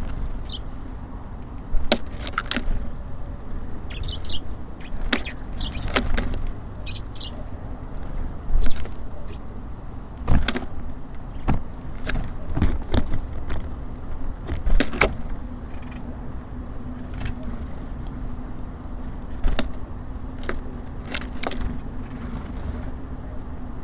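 Small birds at a feeder: irregular sharp taps and knocks with a few short high chirps, over a steady low rumble of city traffic. A low steady hum joins the rumble about two-thirds of the way in.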